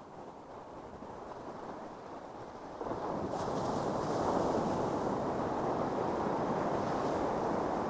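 Ocean surf washing on a beach. It grows sharply louder about three seconds in as a wave breaks, and the hiss of the wash lasts several seconds.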